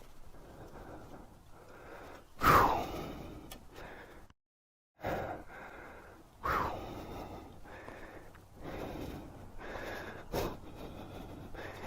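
A motorcycle rider breathing hard and gasping just after a crash, with sharper gasps about two and a half, six and a half and ten seconds in. The sound cuts out completely for a moment near the middle.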